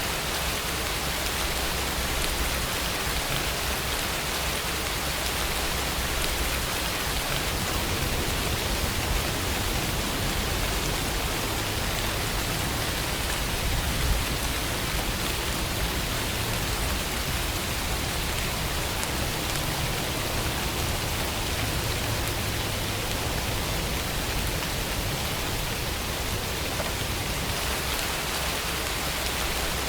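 Steady rainfall: a continuous even hiss of rain falling on surfaces.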